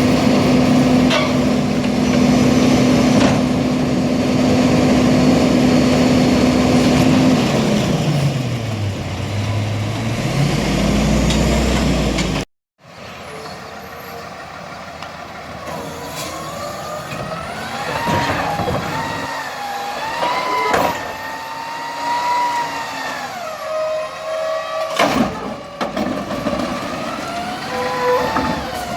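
Garbage truck engines working. One engine holds a steady raised speed, drops low after about seven seconds and then climbs back. After a break, another truck's engine rises and falls in pitch, with a few sharp knocks.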